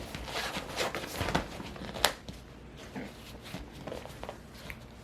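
Cockapoo puppy moving about and playing: irregular light scuffs, rustles and clicks, with one sharper click about two seconds in.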